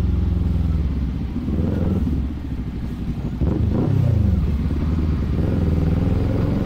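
Kawasaki Z400 parallel-twin engine running under way. The throttle eases off about two seconds in, then opens again sharply at about three and a half seconds, with the engine note gliding in pitch before it settles.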